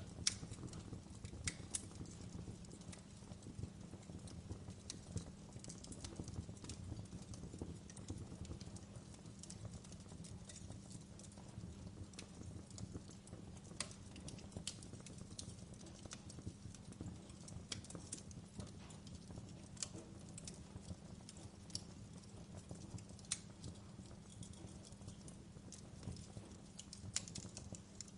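Wood fire crackling in a fireplace: a low steady rumble of flames with sharp pops and snaps scattered irregularly, several a second at times.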